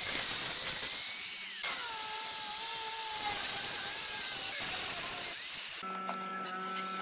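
Electric power tools working wood: a motor whine over the hiss of cutting or sanding. The sound changes abruptly twice, and near the end it becomes a steadier, lower motor hum.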